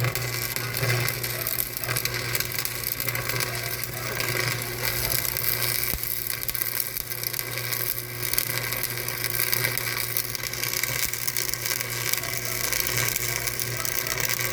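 A machine running steadily, with a continuous low hum under a dense, fine rattle.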